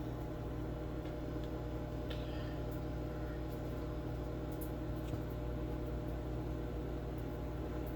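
Samsung over-the-range microwave running its pizza cycle: a steady, even hum.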